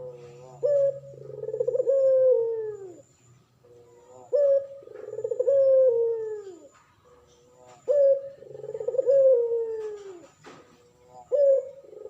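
Male puter pelung turtle dove cooing three times, each call a short opening note followed by a long, drawn-out coo that falls in pitch.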